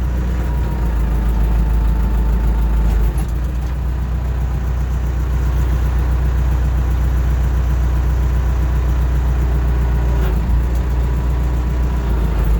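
Backhoe engine running steadily, heard from the operator's seat, with a brief dip in level about three seconds in and again near the end.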